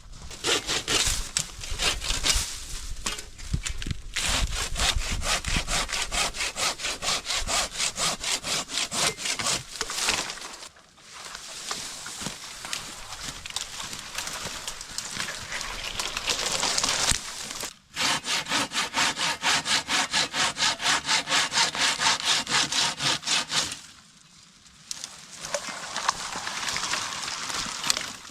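Hand saw cutting through wood in quick, even back-and-forth strokes, about three a second, stopping briefly about eleven, eighteen and twenty-four seconds in.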